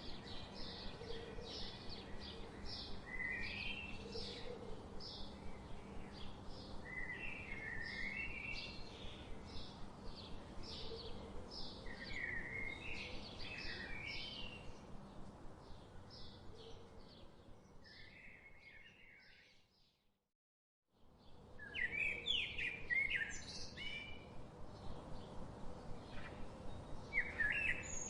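Birds chirping: runs of short, high repeated chirps mixed with lower warbling phrases over a faint background hiss. The sound fades out about two-thirds of the way through, drops to silence for about a second, and comes back in.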